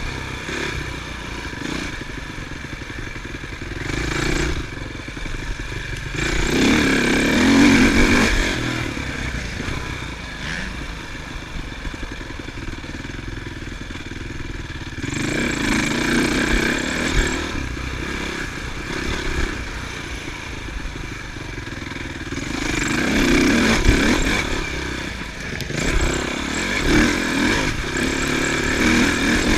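Motocross dirt bikes running on a track, engine noise swelling and fading several times as bikes rev and pass.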